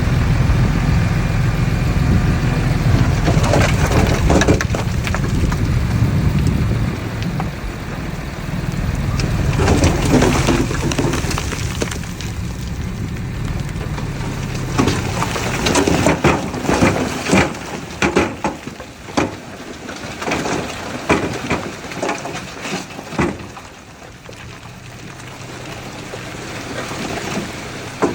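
Heavy earth-moving machinery with a diesel engine running, its low rumble dying away after about seven seconds. A stretch of irregular sharp clatters and crackles follows.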